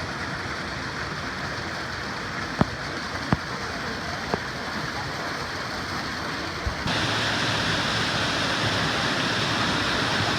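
Steady rush of a waterfall stream, with a few sharp clicks in the first half. About seven seconds in it suddenly becomes louder and brighter.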